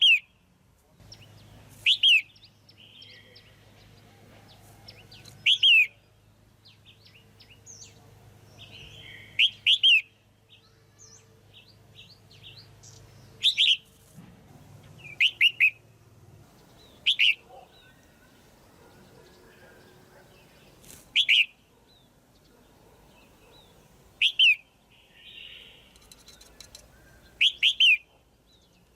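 Female red-whiskered bulbul calling: about ten short, loud, sharp calls, each dropping quickly in pitch, repeated every two to four seconds, with fainter chirps in between.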